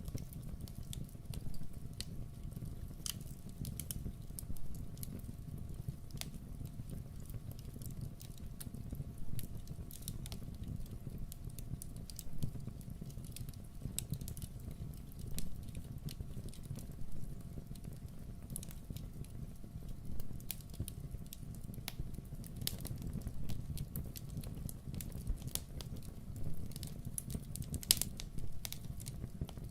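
Wood fire in a fireplace crackling, with irregular sharp pops scattered throughout and one louder pop near the end, over a steady low rumble.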